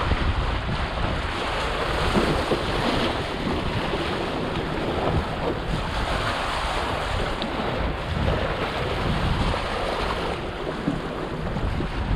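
Wind buffeting the microphone over water rushing and splashing along the hull of a small home-made sailboat sailing in a strong breeze; a steady, unbroken noise with a low rumble.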